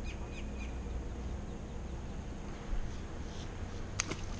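Three quick, high, downward-sweeping bird chirps in the first second, with fainter chirps later, over a steady low background rumble. A sharp click comes near the end.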